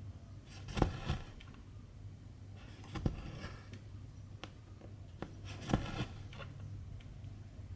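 Cross-stitching by hand: a needle pops through the fabric with a sharp click and silk thread is drawn through after it with a short rasp. This happens three times, about every two and a half seconds, over a low steady hum.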